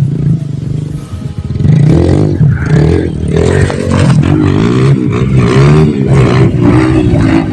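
Off-road trail motorcycle engine revving up and down repeatedly under load, with some mechanical clatter, getting louder about two seconds in.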